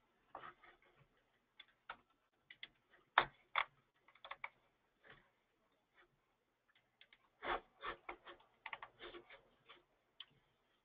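Computer keyboard typing, faint and irregular, in scattered taps with a denser run of keystrokes from about seven to nine and a half seconds in.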